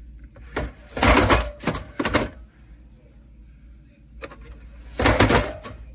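Handling noises from a plastic can dispenser and cans: a run of short knocks and scrapes in the first two seconds, and another cluster near the end.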